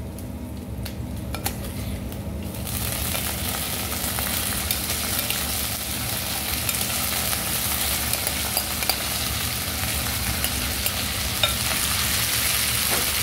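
Chicken pieces hitting a hot wok of oil and garlic begin sizzling loudly about three seconds in and keep frying steadily. Small taps and scrapes of a metal spoon stirring the chicken in the wok run through it.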